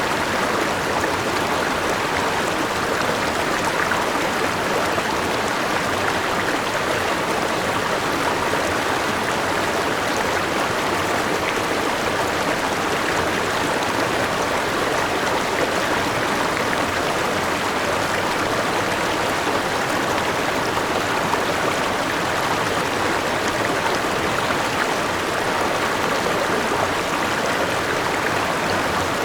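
Forest river and small waterfall: rushing water running steadily, without a break.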